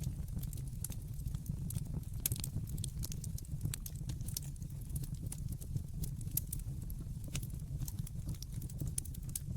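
Wood fire burning in a fireplace: many irregular sharp crackles and pops over a steady low rumble.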